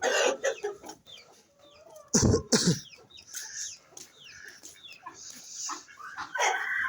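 Chickens clucking, with many short, high, falling peeps and two loud, low calls about two seconds in.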